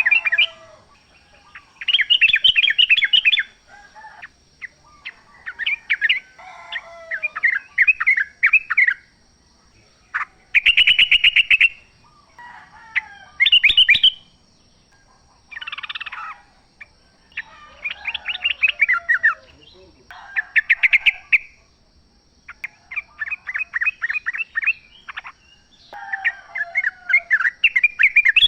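Yellow-vented bulbuls singing: repeated short bursts of quick, bubbly chattering notes, a new phrase every couple of seconds, over a faint steady high tone.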